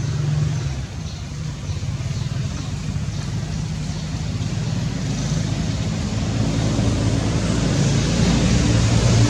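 A steady low motor hum, like a vehicle engine running, growing louder over the last few seconds.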